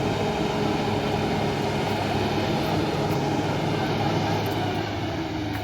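Truck engine running at a steady pitch, easing off slightly near the end.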